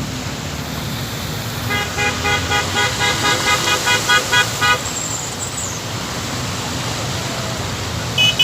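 A vehicle horn tooting rapidly, about four short toots a second for roughly three seconds and getting louder, over a steady rushing street noise. Two more short, higher beeps come near the end.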